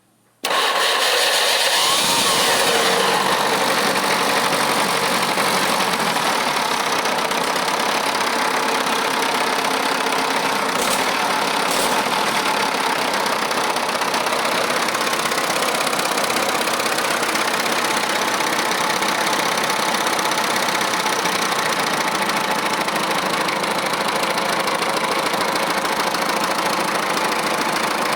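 Ford 5000 tractor engine running after a valve clearance adjustment. It comes in suddenly just after the start, rises briefly in pitch over the first few seconds, then runs steadily.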